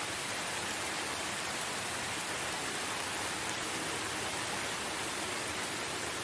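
Steady rain falling in a forest: an even, unbroken hiss with no single drops or thunder standing out.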